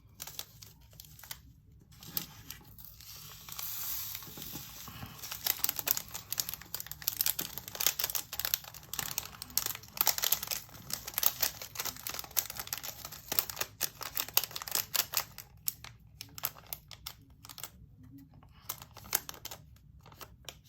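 A small plastic baggie of resin diamond-painting drills crinkling as it is handled and emptied, with a dense run of tiny clicks and rustles as the drills pour and are shaken out into a plastic storage container; it thins out near the end.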